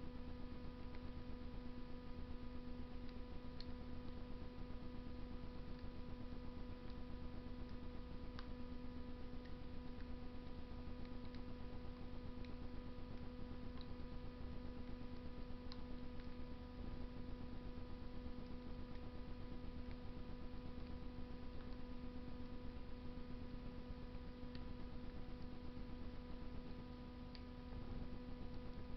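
Wood fire burning in a Russian masonry stove: a steady low rush with occasional sharp crackles and pops from the burning wood, a few seconds apart, over a constant hum.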